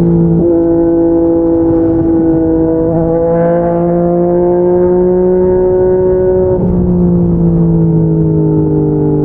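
Yamaha MT-09's three-cylinder engine running through an aftermarket slip-on exhaust while riding, its pitch climbing slowly under light throttle. About two-thirds through the note breaks briefly, then eases gently down.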